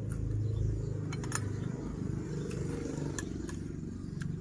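Eating sounds from a mukbang: chewing and mouth noises with a few sharp clicks, probably from bites or utensils, over a steady low rumble.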